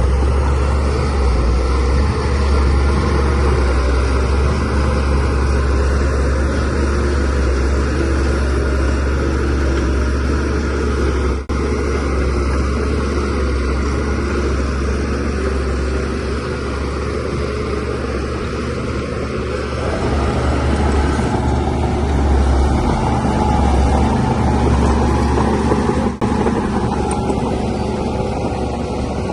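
DH17C3 crawler bulldozer's diesel engine running steadily under load, a deep continuous drone that swells a little past the middle, with two brief dips in level.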